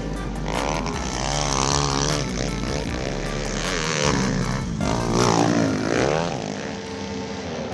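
Several small pit bike engines racing together, their pitches rising and falling as they rev up and back off, overlapping one another.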